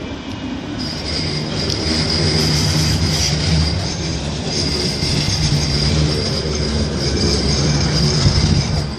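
Bombardier M5000 light-rail tram arriving, with a steady high wheel squeal from about a second in over the low hum of its running gear.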